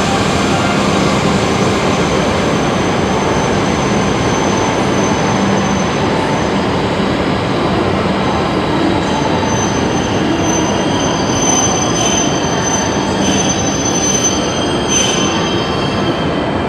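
Shinkansen bullet train moving along the station platform: steady running noise with a thin high-pitched whine, and metallic wheel squeals coming in over the second half.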